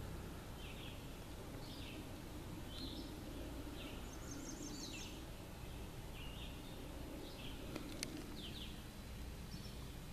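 Bird song: a string of short, falling chirps repeated every half-second to second, with a quick rapid trill about four and a half seconds in, over a steady outdoor background noise. One sharp click about eight seconds in.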